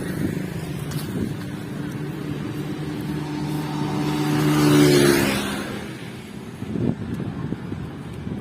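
A motor vehicle's engine running as it comes closer and passes, loudest about five seconds in, then fading away. Irregular low knocks follow near the end.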